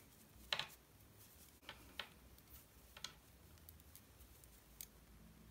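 Faint, irregular clicks of two knitting needles touching as stitches are knitted and bound off, about five in a few seconds.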